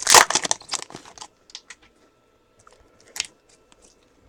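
Trading-card pack wrapper crinkling and cards being handled, loudest in the first second or so, then scattered light rustles and clicks.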